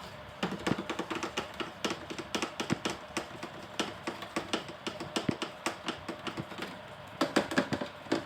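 Irregular light tapping and clicking, several taps a second, starting about half a second in and growing busier near the end.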